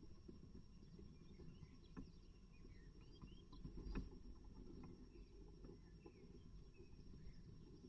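Faint scratching and rustling of a great tit moving about in the nest material inside a nest box. There are a few sharp taps, the loudest about four seconds in, and faint short bird chirps in the background.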